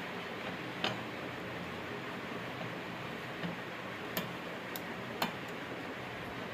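A few sharp, isolated clicks over a steady background hiss.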